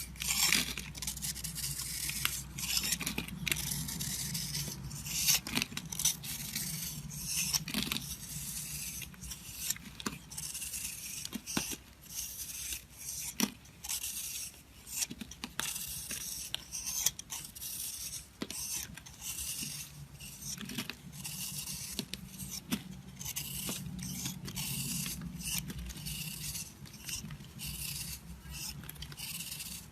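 A knife scraping and cutting through a bar of soap: a continuous run of crisp scrapes with many small sharp cracks and clicks.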